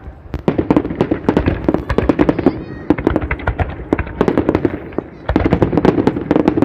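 Dense crackling and popping of a large fireworks display, many bursts going off in quick succession, with a short lull about five seconds in before it picks up again.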